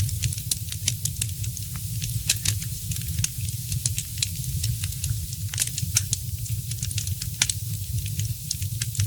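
Wood fire crackling in a fireplace: frequent sharp, irregular pops and snaps over a steady low rumble and a soft hiss.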